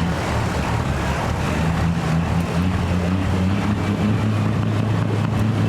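Pulling vehicle's engine running hard under load during a truck and tractor pull; the engine note climbs a little about two seconds in and then holds steady.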